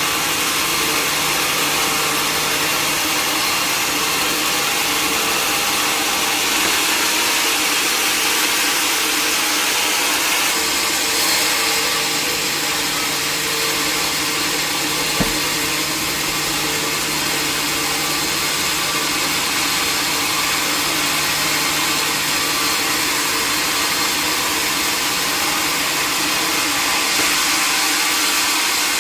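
Sawmill saw running steadily, with one short knock about fifteen seconds in.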